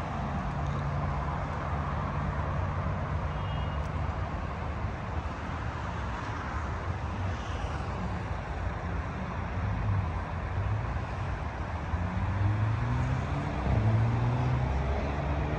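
Street traffic: a motor vehicle's engine running with a low, steady rumble. Near the end its pitch rises as the vehicle accelerates.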